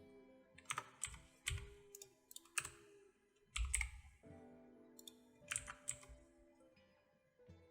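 Computer keyboard keys pressed now and then, a scattered handful of sharp clicks, over quiet background music with soft held tones.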